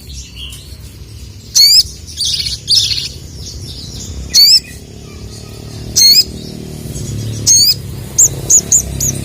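Male sogon (sogok ontong) giving sharp, high, warbled call notes, repeated about every one and a half seconds, with a softer twittering in between and a quick run of three short chirps near the end.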